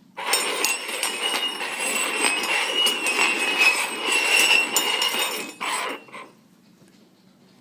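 Cups being shuffled around on a hard tabletop for about six seconds: a continuous scraping and clattering with many small clicks and a squeal. It then stops suddenly, leaving faint room noise.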